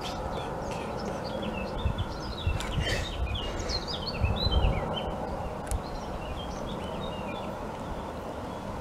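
Small birds chirping in quick runs of short, falling notes, busiest in the middle, over a steady outdoor hiss with low rumbles of wind on the microphone.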